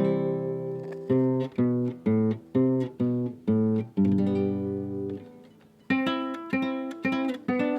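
Solo guitar playing a slow melody in plucked notes and chords. It moves in evenly spaced notes about two a second, leaves a chord ringing about four seconds in as it fades, then starts a new phrase near the end.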